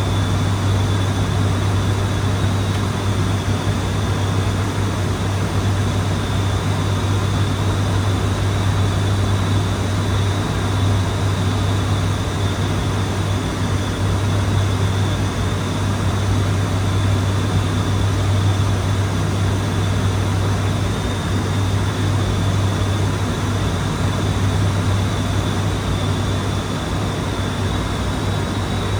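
ATR 72-600 turboprop engines and propellers running with a steady drone: a strong low hum, a faint high whine and a rushing noise, unchanging throughout.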